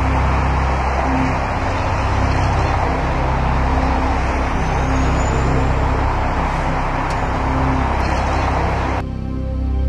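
Steady road traffic noise: a dense, even rush of passing cars over a low engine hum. About nine seconds in it cuts off abruptly and music begins.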